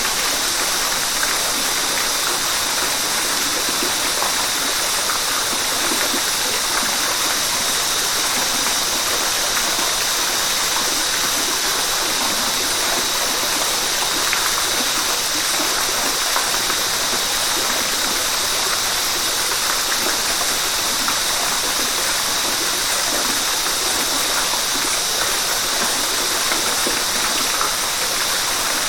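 River water rushing and splashing over rocks, a steady even rush with its energy high in pitch.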